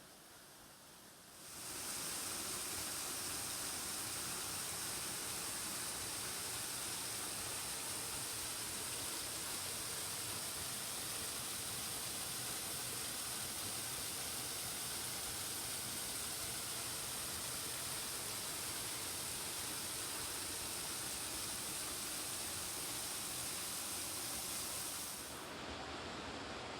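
Steady rushing hiss of falling water from a waterfall, starting abruptly about a second and a half in and dropping off a little near the end.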